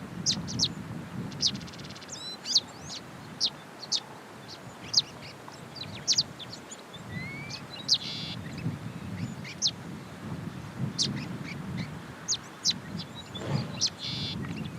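Wild birds calling: many short, sharp chirps and a few rising whistles, with two brief buzzy rattles, over a low steady rumble.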